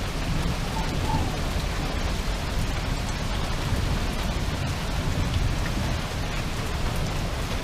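Heavy rain pouring down steadily, an even hiss of rain with a low rumble underneath.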